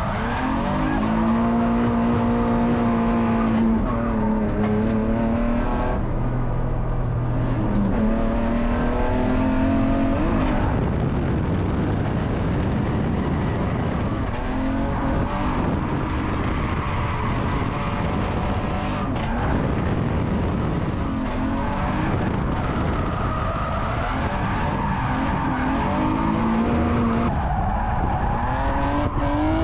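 BMW E46 drift car's straight-six engine revving up and down again and again on the throttle while its tyres skid and squeal through slides.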